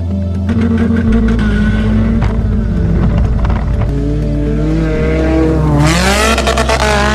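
A car's engine revving with tyres squealing, loudest and shrillest in a sweeping burst near the end, over background music with a steady bass.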